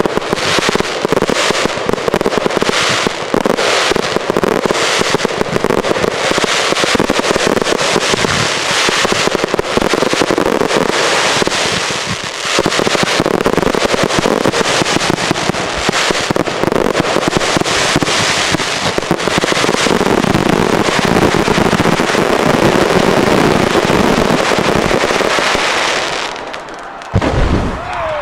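Aerial fireworks in a rapid, continuous barrage of overlapping bursts and crackle. Near the end the barrage drops off and a single heavy low boom goes off.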